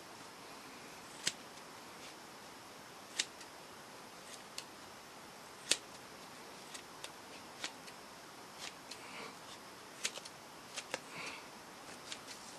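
Scissors snipping through foam: faint, sharp clicks at irregular intervals, about a dozen cuts.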